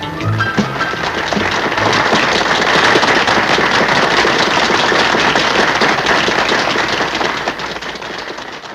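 Final notes of a country band, then audience applause that fades away near the end.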